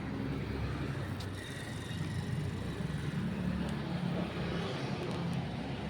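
Motor vehicle engine running with a steady low hum, over general road traffic noise.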